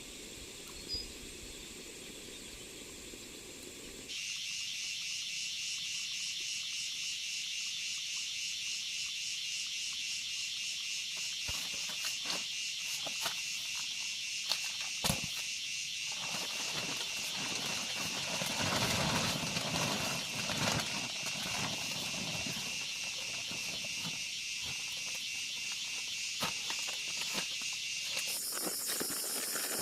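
Insects, crickets or cicadas, trilling steadily and shrilly, the chorus changing abruptly about four seconds in and again near the end. Scattered clicks and a rustling in the middle.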